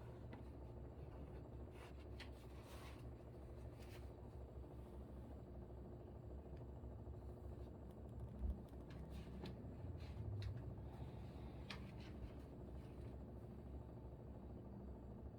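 Air conditioner humming steadily, with faint scratching and rustling of writing and paper over it and one soft thump about eight seconds in.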